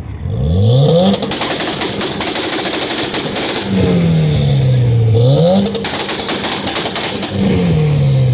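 Car engine revving up onto a two-step launch limiter, the exhaust popping and banging in a rapid machine-gun crackle while held against the limiter. This happens twice, with the revs dropping away and climbing back between the two bursts and falling again near the end.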